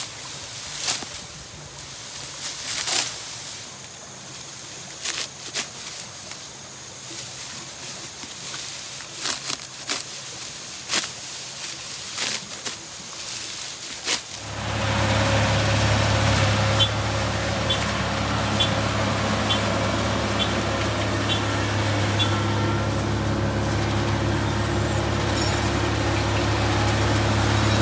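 Rice stalks rustling with sharp crisp snaps as they are cut by hand with a sickle. About halfway through, a combine harvester's engine takes over abruptly and runs steadily.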